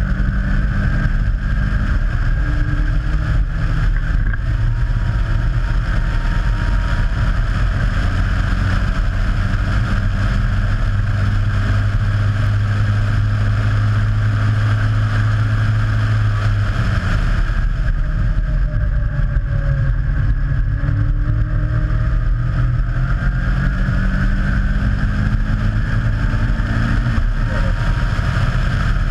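Caterham Seven's Ford Sigma four-cylinder engine running hard under racing load. The revs hold steady for several seconds, drop away about two-thirds through, then climb again through the gears.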